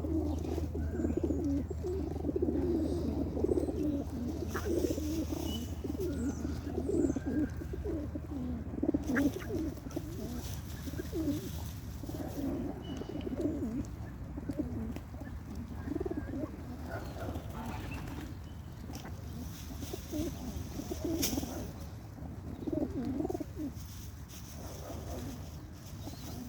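Several birds calling, with many overlapping short low calls repeating throughout and a few faint higher chirps. A steady low hum underneath fades out about eight seconds in.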